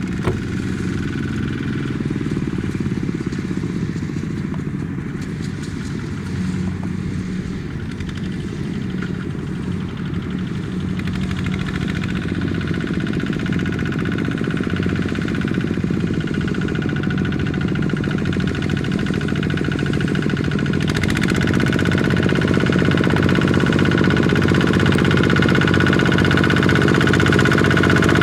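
Small diesel tractor engine running steadily, its note growing louder and fuller about two-thirds of the way through.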